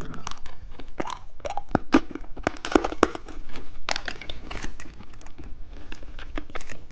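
Hard lollipop candy being bitten and chewed close to the microphone: a run of irregular, sharp crunching cracks.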